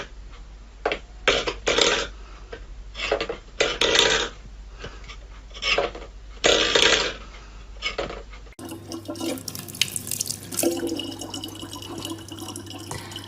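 Irregular short splashing bursts, then after an abrupt cut, a steady run of tap water with a low hum under it.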